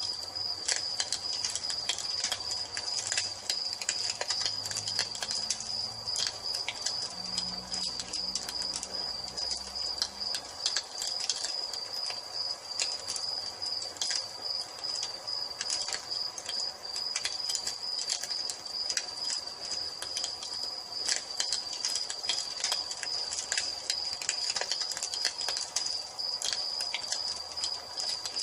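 Wood fire crackling with frequent sharp pops, over a steady high-pitched cricket trill.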